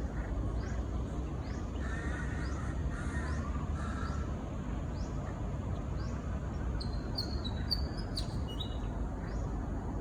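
Birds calling: three lower calls about a second apart in the middle, over a short high call that repeats roughly every 0.7 s, with a few short high whistled notes near the end. A steady low rumble runs underneath.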